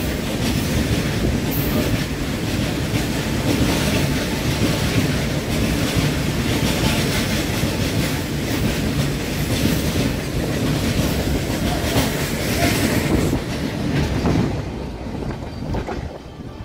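Wheels of a long freight rake of covered goods wagons rumbling and clattering over the rail joints as it passes close by. The sound holds steady, then falls away about fourteen to fifteen seconds in as the last wagons and brake van go by.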